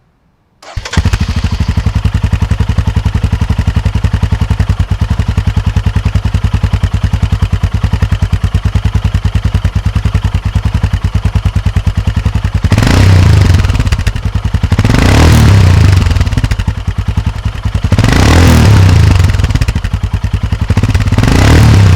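Royal Enfield Himalayan's single-cylinder engine, breathing through a PoweRage slip-on exhaust with its dB killer fitted. It idles with an even, rapid thumping for about twelve seconds, then is revved four times with short throttle blips that rise and fall. The louder peaks are distorted by the camera microphone.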